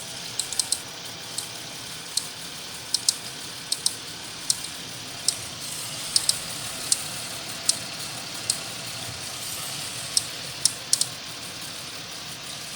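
Car engine running quietly with a sharp, irregular ticking, roughly one or two ticks a second, over its steady low noise.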